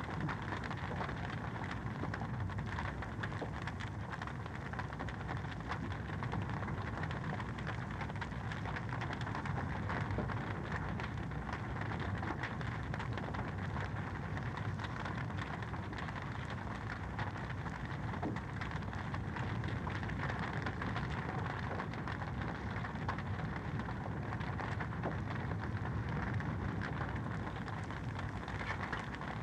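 Wood fire in a fireplace crackling steadily: a continuous hiss scattered with many small pops and snaps.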